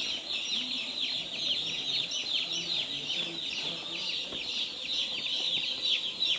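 A flock of chickens, many young birds peeping nonstop in short falling notes, with low clucks underneath.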